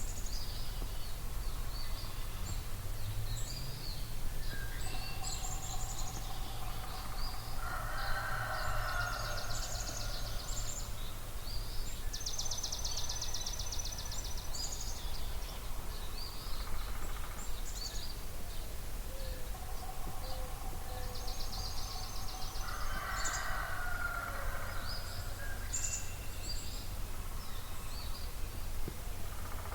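Dawn chorus of several songbirds over a marsh, with many short high notes and a rapid, even trill repeated three times. Twice a lower, drawn-out call stands out for a few seconds, over a low steady rumble.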